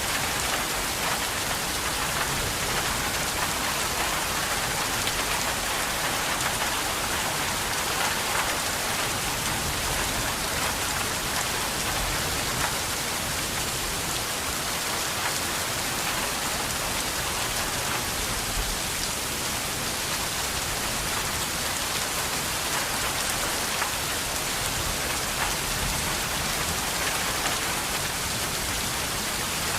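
Steady rain falling, a dense hiss with many small drop patters.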